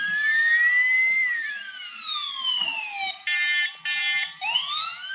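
Several emergency-vehicle sirens wailing over one another, their pitch sweeping up and down, with two short beeps about three and four seconds in.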